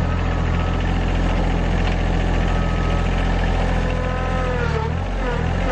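Rural King RK25 subcompact tractor's diesel engine running steadily under load as the tractor pushes against a stump. Near the end its pitch dips and recovers a few times.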